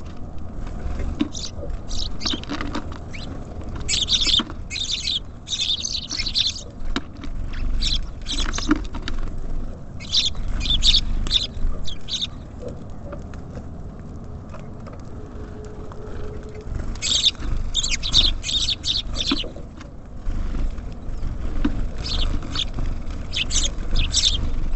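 Small songbirds at a feeder, tits and sparrows, giving quick high chirps in bunches of a second or two, with pauses between them, over a steady low rumble.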